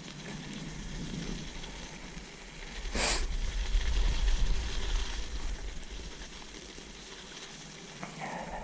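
Wind buffeting the microphone as a low, steady rumble, with one short, sharp hiss-like burst about three seconds in.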